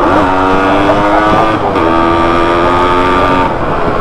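Motorcycle engine running under way, its note dropping at each gear change, once at the start and again about a second and a half in, then holding steady before the throttle eases off near the end.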